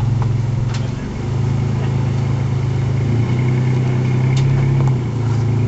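Nissan Frontier pickup's engine running at low revs while rock crawling, its pitch stepping up and down a few times as the throttle is fed in and eased off.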